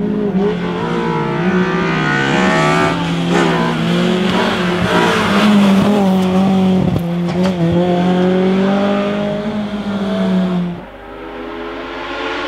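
Hillclimb race car engine running hard at high revs, its note dipping briefly a few times on lifts and gear changes. Near the end the note drops away suddenly, then an engine climbs in pitch as it accelerates again.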